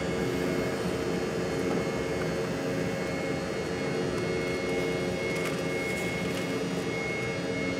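Jet airliner's engines at takeoff power heard from inside the passenger cabin: a steady rush of noise with several steady whining tones.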